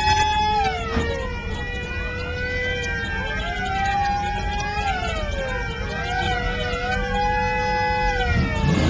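Several sirens wailing at once, their tones rising and falling out of step with one another over a low rumble.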